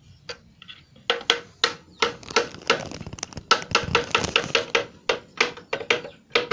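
Rapid tapping of a small hammer on wood, several sharp knocks a second, each with a short ring, starting about a second in. The hammer is driving bamboo pegs into a jelutung-wood frame in place of nails.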